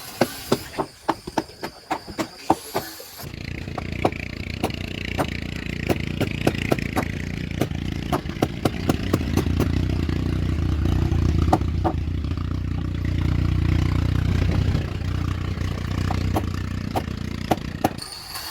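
A quick run of sharp knocks, about three a second, then, after an abrupt change just over three seconds in, a motor running with a steady low rumble while irregular knocks continue.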